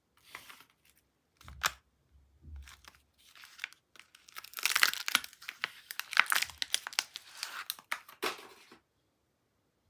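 Wrapping of a bar of soap being torn and crinkled open: a run of crackles and rips, sparse at first, densest in the middle, stopping shortly before the end.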